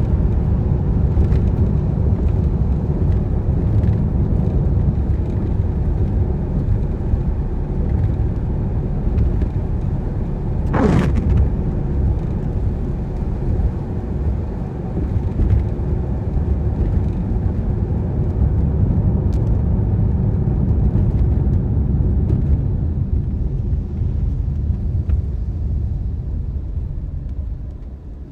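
Car driving in rain: a steady low rumble of engine and tyres on the wet road, with one brief sharp swish about eleven seconds in. The rumble dies down near the end.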